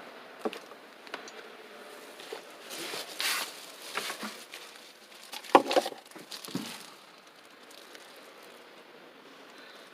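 Handling noises: scattered clicks and rustling. The loudest is a sharp knock about five and a half seconds in.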